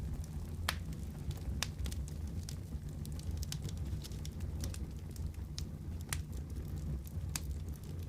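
Fireplace wood fire crackling: irregular sharp pops and snaps, several a second, over a steady low rumble.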